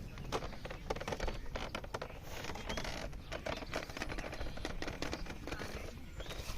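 Irregular light clicks, taps and knocks of a bamboo footbridge as someone steps carefully across it.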